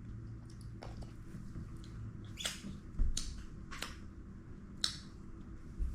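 A few faint, scattered wet clicks and smacks, the lip and tongue sounds of someone tasting a sip of beer, over a steady low electrical hum.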